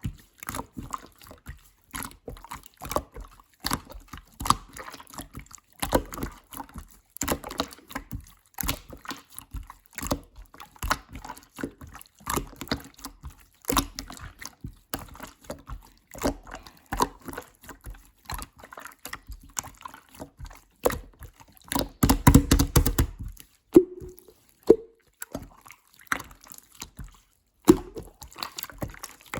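Clear slime being squished and stretched by hand: irregular wet clicks and pops, with a louder, denser squelching stretch about 22 seconds in.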